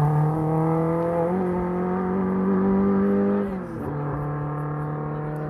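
BMW 2002 rally car's four-cylinder engine under hard acceleration, its note climbing steadily for about three and a half seconds, then dropping sharply and settling to a lower, steady note that slowly fades.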